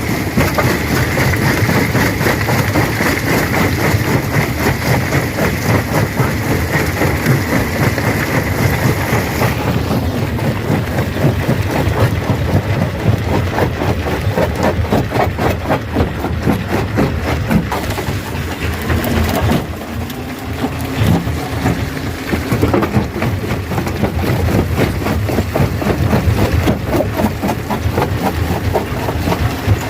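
Stone crusher breaking rocks: a continuous, dense clatter of rock being crushed over the machine's low running rumble. A steady high whine stops about ten seconds in.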